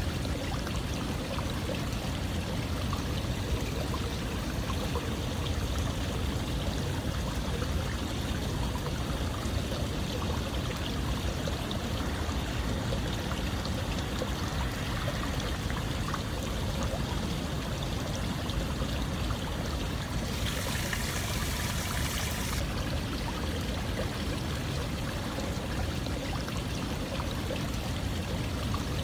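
Steady running water flowing continuously, with a brief brighter hiss for about two seconds some twenty seconds in.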